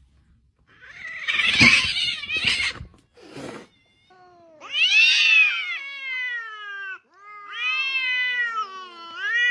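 A cat yowling: two long, drawn-out meows in the second half, the first rising then falling in pitch, the second wavering. Short noisy sounds come before them in the first few seconds.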